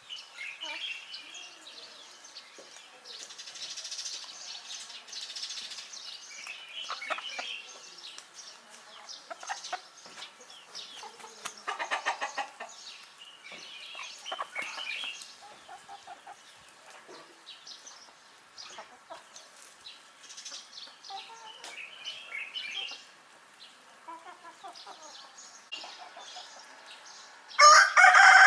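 A flock of chickens clucking and calling on and off, with short scattered calls. About a second before the end a rooster starts a loud crow, the loudest sound here.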